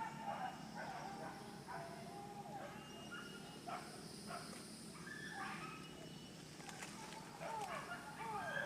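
Hunting dogs yelping and whining in short, rising-and-falling calls, faint and repeated throughout.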